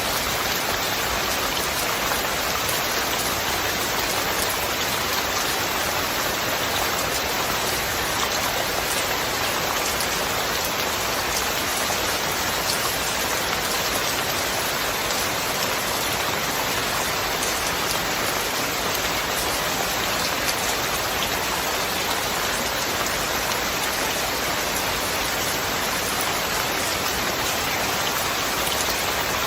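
Steady rain falling: an even, unbroken hiss with faint ticks of single drops scattered through it.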